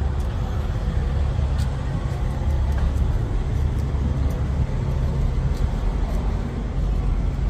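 Heavy truck diesel engine idling with a steady low rumble.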